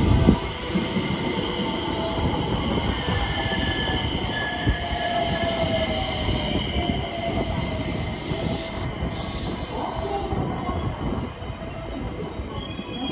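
Electric commuter train's wheels running along the platform track, a steady rumble with high, wavering wheel squeal on the rails, and a sharp knock about a quarter second in. The sound eases slightly as the last cars pass.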